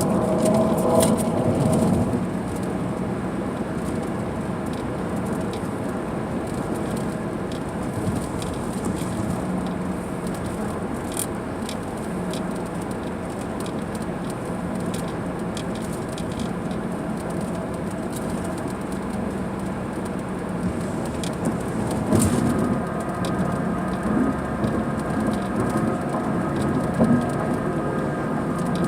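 Rain pattering on a moving car's roof and windshield, with scattered sharp drop clicks over a steady rush of road noise. A steady hum with several tones comes in for the last several seconds.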